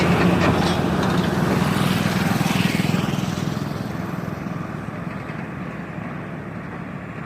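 John Deere 5310 tractor's three-cylinder diesel engine running as it pulls a heavily loaded sugarcane trolley, its steady drone gradually fading.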